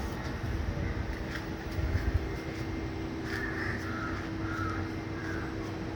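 Steady low rumble of a car on the move, with a constant hum under it and a brief louder patch about two seconds in. A few short chirps sound in the second half.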